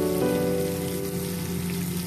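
Sliced onions sizzling and crackling in hot oil in a wok, under background music of held notes that change every half second or so.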